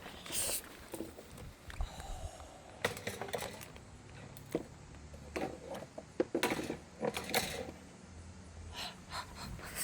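A dog panting and snuffling close by, broken by scattered short clicks and rustles.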